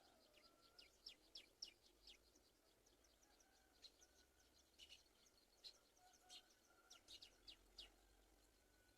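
Faint birdsong: many short, high chirps in irregular runs, with a few faint drawn-out whistles underneath.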